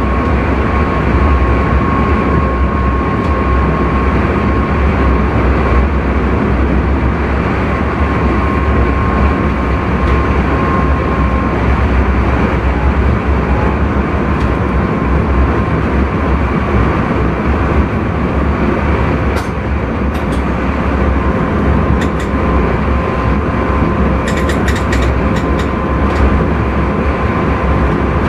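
Intercity train running at speed, heard from the driver's cab: a steady, heavy rumble of wheels on rails with a faint steady whine. There are a few short clicks about two-thirds of the way through and a small cluster of them near the end.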